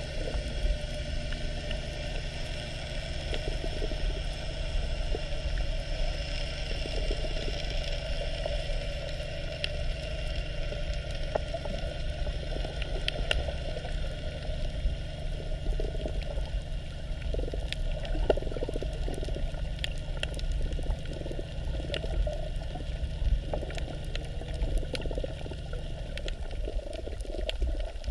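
Water noise over a steady low hum, with scattered short clicks.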